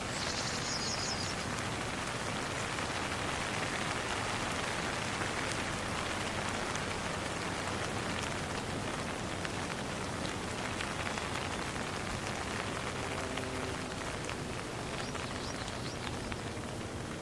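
Steady rain falling, an even hiss with fine patter. A brief run of high chirps comes in just at the start and again near the end, and faint soft sustained tones rise under the rain in the last few seconds.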